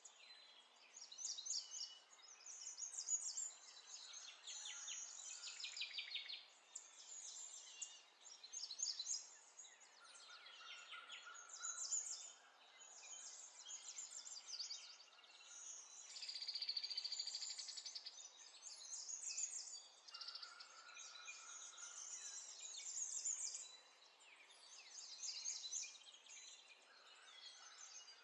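Faint birdsong: small birds chirping and trilling on and off, high-pitched, with a longer trill a little past the middle.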